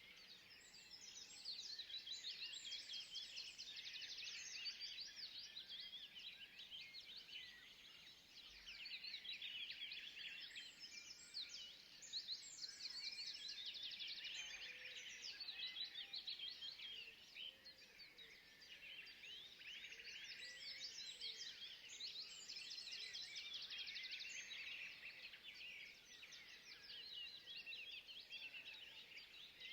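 Quiet forest ambience: many small birds chirping and twittering high-pitched over one another, the chorus swelling and fading in waves every few seconds over a faint background hiss.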